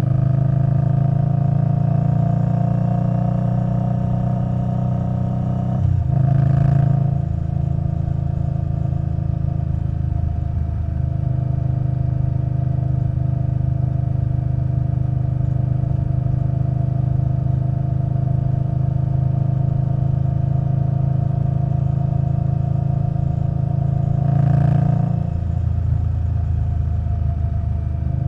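Indian Scout Bobber Twenty's V-twin running through V&H Twin Slash exhaust while riding. The engine note sinks gently over the first few seconds, then holds steady, with a brief change in the note about six seconds in and again near the end.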